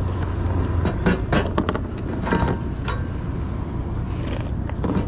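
A truck engine idling steadily, with a handful of sharp clanks and scrapes as jumper cables and clamps are handled at the batteries.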